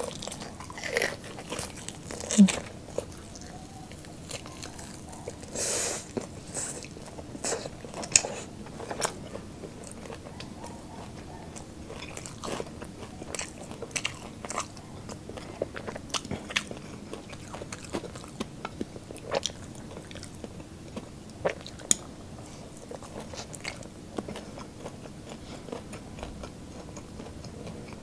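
Eating crispy lechon kawali (deep-fried pork belly): irregular crunching bites and chewing with wet mouth clicks, and a few sharper, louder crunches scattered through.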